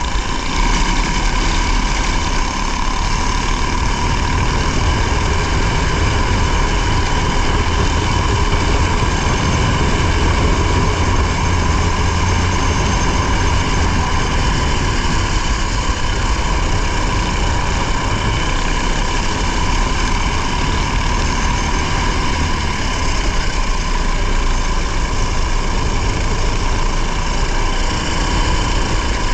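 Rally car engine running steadily with road and tyre noise, heard from on board the car.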